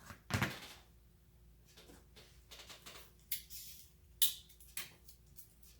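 Light handling noises on a workbench: a few sharp clicks and knocks, with a short rustle a little past three seconds in.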